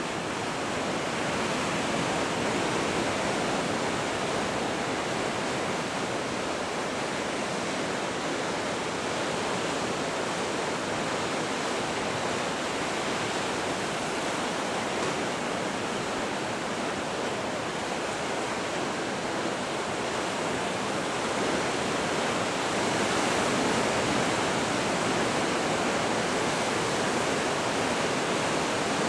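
Ocean surf rushing steadily, with slow swells in loudness as waves break, the loudest a little past two-thirds of the way through.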